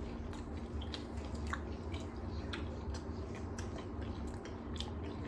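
Close-up chewing of a Kit Kat wafer bar: a scatter of small, crisp mouth clicks over a steady low hum.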